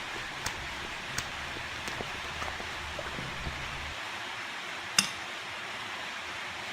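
Eating sounds: scattered small clicks and clinks over a steady hiss, with one sharp clink about five seconds in.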